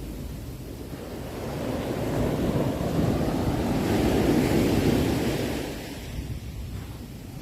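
Sea waves breaking on a shore. A wave surges up over a couple of seconds, peaks about halfway through, then washes back and fades.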